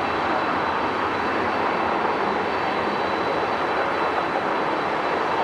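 Jet airliner engines running with a loud, steady roar, with a thin steady high whine.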